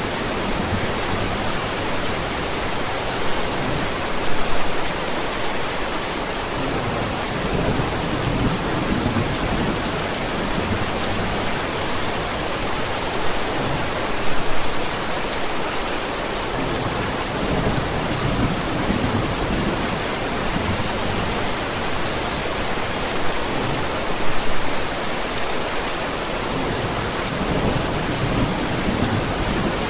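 Steady, heavy rain falling, with low rumbles of thunder swelling up about every ten seconds.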